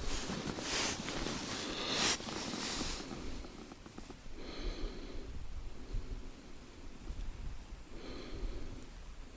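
Hissing rustle for the first few seconds, then two short breaths through the nose, a few seconds apart.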